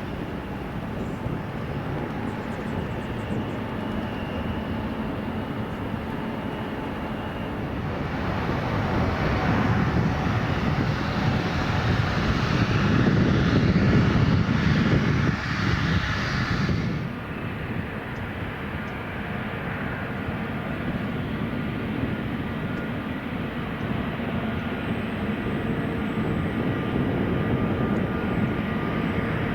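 Jet engines of a departing Boeing 777-200ER airliner at takeoff power, swelling to a loud peak and cutting off suddenly about seventeen seconds in. After the cut, a quieter, steady jet sound with a faint whine from an arriving Boeing 787-9.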